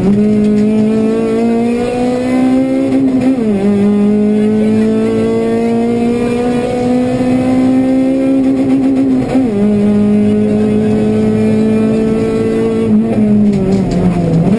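Honda Civic Type-R rally car's four-cylinder engine, heard from inside the cabin, running hard with its pitch climbing steadily in each gear. Upshifts drop the pitch about three and about nine seconds in, after which it holds roughly level.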